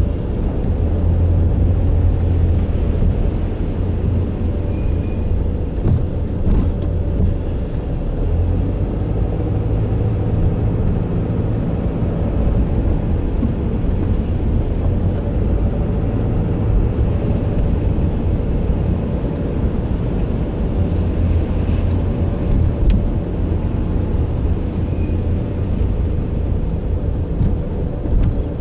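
Steady low rumble of a motor vehicle, with a few faint clicks about six seconds in.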